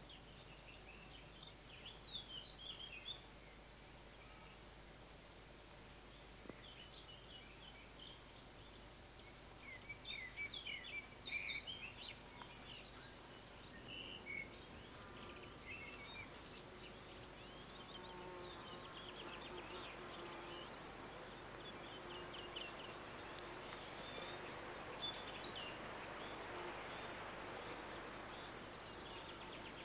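Faint countryside ambience: an insect's regular high chirp about three times a second, with scattered bird chirps. In the second half a soft steady hiss slowly grows louder.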